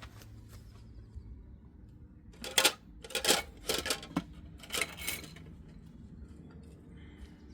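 A cluster of about five sharp clattering knocks of hard household objects being handled, coming between about two and a half and five seconds in.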